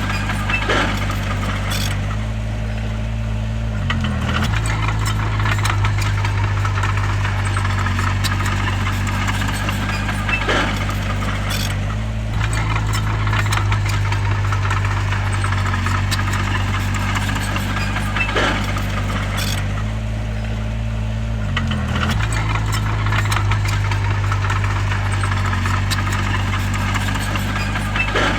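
Heavy diesel engine of a crawler bulldozer running steadily with a metallic rattle. The engine speed dips and picks up again twice, at about four seconds in and near twenty-two seconds, as it takes load. A few sharp clanks come at irregular intervals.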